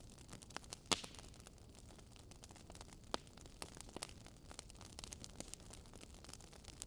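Wood fire crackling: irregular sharp pops and snaps over a faint steady hiss, the loudest pop about a second in.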